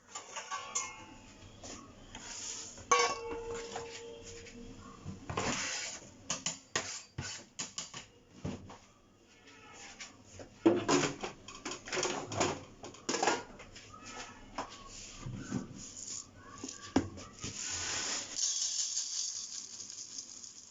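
Dishes and metal utensils being handled, with repeated clatters and knocks. A metal vessel is struck about three seconds in and rings briefly.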